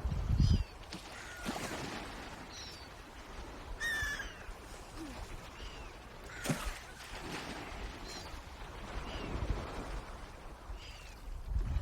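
Swans calling: short, high, downward-sliding calls every couple of seconds, with a louder call rich in overtones about four seconds in and a sweeping call a little later. A low rumble comes right at the start and again near the end.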